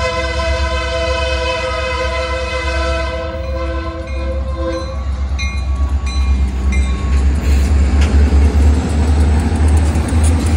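Great Lakes Central diesel locomotives passing close by. The lead unit's horn sounds a long chord that ends about five seconds in, followed by a few short high rings. Then comes the heavy low rumble of the diesel engines, growing as the locomotives go past.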